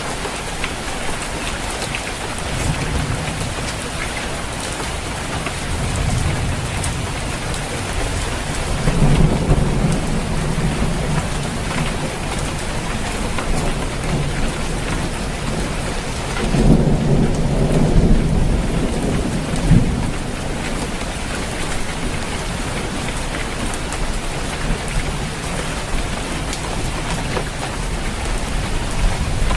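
Steady heavy rain falling on a roof, with rolling thunder rumbling through it and swelling twice, about a third and about halfway through.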